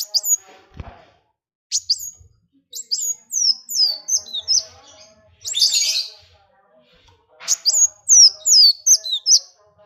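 Small songbird singing in bursts of rapid, high, downward-sweeping chirps, four phrases with short pauses between, over fainter lower notes. A single low thump about a second in.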